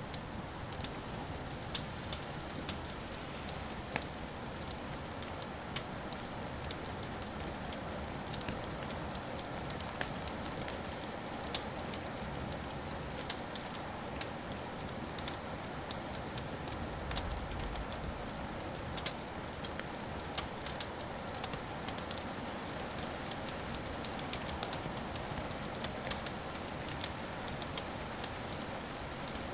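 Wood fire crackling steadily, with frequent small, sharp pops over a soft, even hiss.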